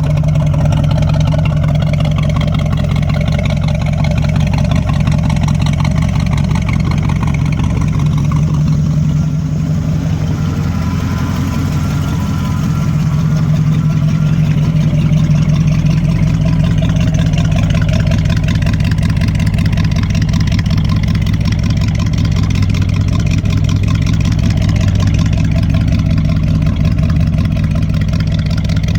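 Ford 390 cubic-inch FE V8 of a 1974 F-100 idling steadily just after start-up. It runs through stock manifolds into 2 1/4-inch dual exhaust with glass-pack mufflers and megaphone tips.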